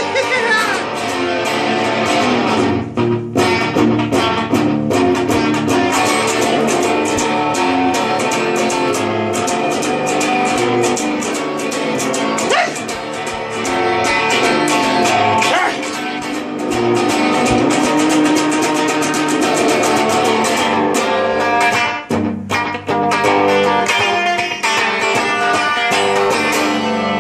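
Guitar playing an instrumental break in a song, busy picked and strummed notes with no singing.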